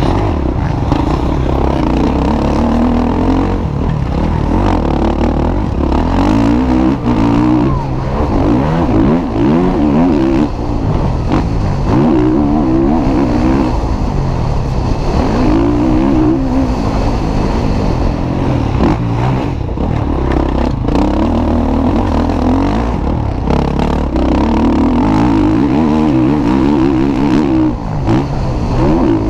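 Motocross bikes racing, their engines running loud and continuous and repeatedly revving up and dropping back every few seconds as they accelerate and shift.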